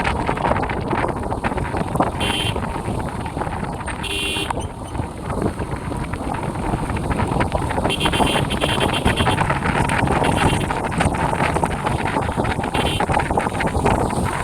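Motorcycle being ridden, heard from the rider's microphone: steady engine and road noise under heavy wind buffeting, with a few short higher-pitched bursts.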